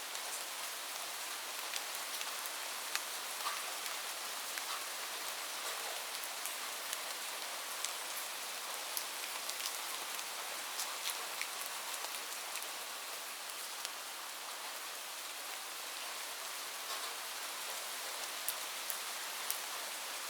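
Light rain falling steadily, a continuous hiss with scattered individual drops ticking close by.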